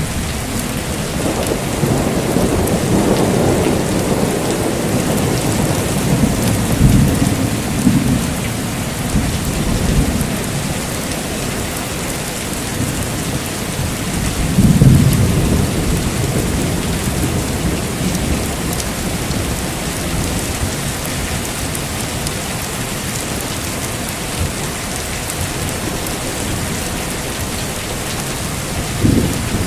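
Heavy rain falling steadily with thunder: a long rolling rumble through the first ten seconds or so, a sharper, louder clap about halfway, and another starting near the end.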